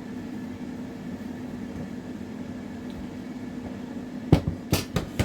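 Steady hum of an air fryer running as it preheats. Near the end come a few sharp knocks and clicks in quick succession.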